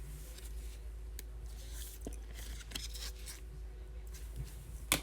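Trading cards being handled and sorted: faint rustling and light clicks of card stock, with a sharper click near the end, over a low steady hum.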